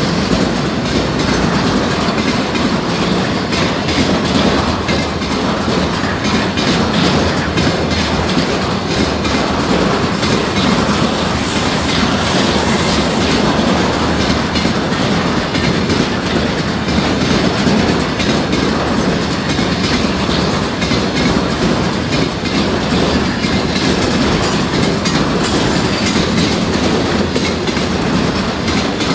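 A long freight train of loaded container flatcars rolling steadily past, its steel wheels clicking and clattering on the rails over a continuous rumble that stays even throughout.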